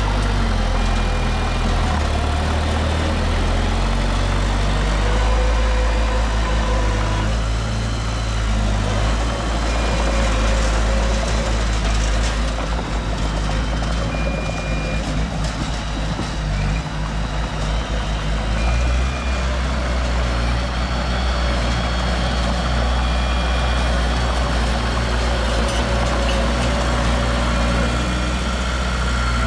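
Heavy diesel construction machinery running steadily with a deep engine drone. A short high warning beep, typical of a reversing alarm, sounds about every four to five seconds.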